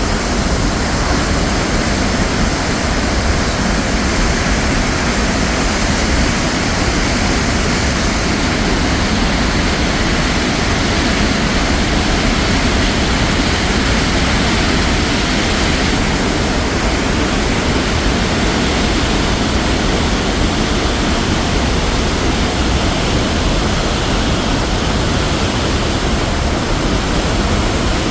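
Tännforsen waterfall: a large volume of water crashing down, a loud, steady, unbroken rush.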